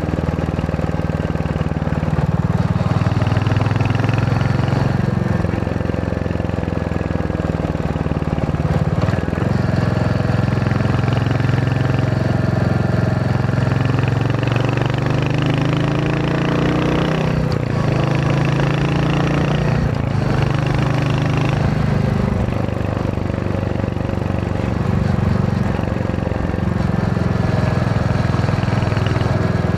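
Royal Enfield Hunter 350's single-cylinder engine and exhaust while riding, the engine note rising and falling several times with throttle and gear changes.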